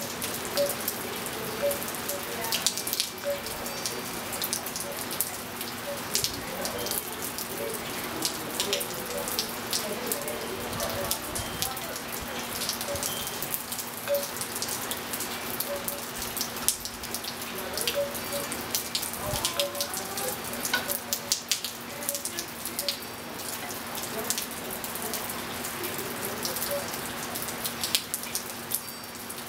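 Steady rain falling on a swimming pool and tiled patio, with many close drops and drips hitting hard surfaces. Now and then a wind chime rings faintly.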